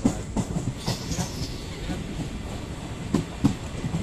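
Train wheels rumbling along the rails, heard from inside a moving coach, with clacks over the rail joints; two louder clacks come close together about three seconds in.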